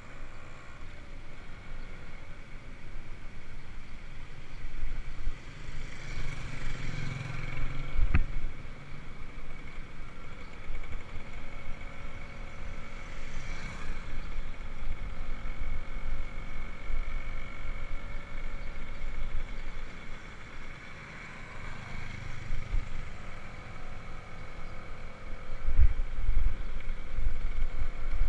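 Bicycle ride: steady rumble of tyres on the road and wind on the microphone, swelling louder twice. There is a sharp knock about eight seconds in and more jolts near the end.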